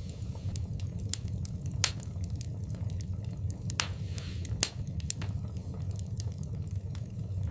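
Wood fire in a fireplace crackling: irregular sharp pops and snaps over a steady low rumble of burning, with the loudest pops about two seconds in and twice more between four and five seconds.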